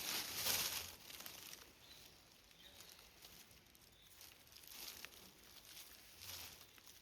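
Rustling and crinkling of something being disturbed or handled on the forest floor, loudest in the first second, then fainter scattered rustles and a small click.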